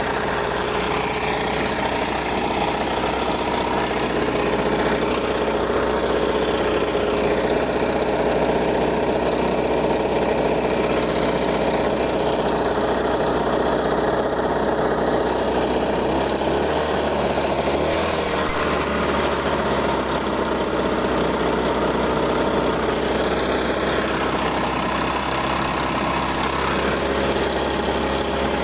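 Small engine of a homemade cart running steadily, its note wavering briefly about two-thirds of the way through.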